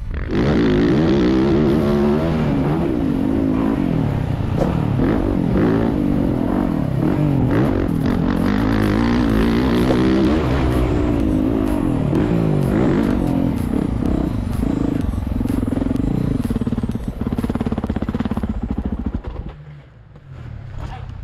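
Motocross bike engine revving up and down hard as it is ridden around a dirt track, heard from the rider's helmet camera. Near the end the engine sound falls away sharply.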